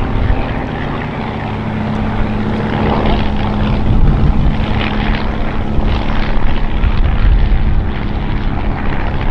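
Propeller aircraft flying over: a steady droning tone over a low rumble.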